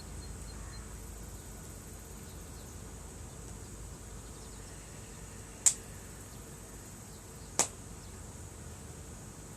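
Campfire wood popping: two sharp cracks about two seconds apart, over a steady faint hiss.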